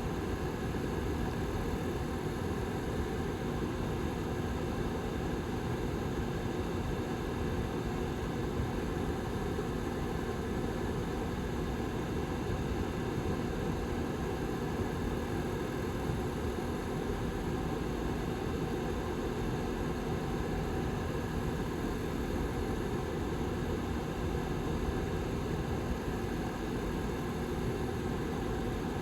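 Lasko Model 755320 tower heater's rear fan running steadily: an even rush of air with a low steady hum underneath.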